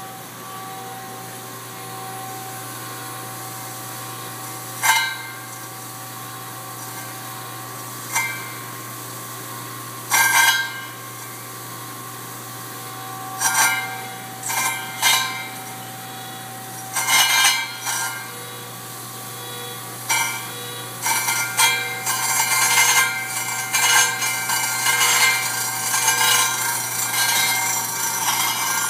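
Double-disk grinder running with a steady hum while rough-grinding stone flatstones. Short, loud grating bursts come as the stone meets the grinding disks, a dozen or so at first, then near-continuous grinding in the last third.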